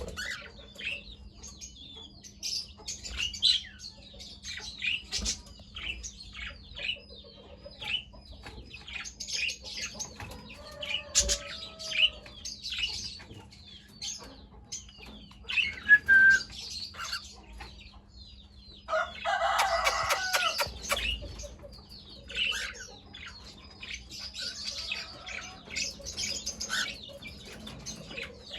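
Cockatiels chirping, many short high calls scattered throughout, with a louder, denser stretch of harsher calling a little past two-thirds of the way through.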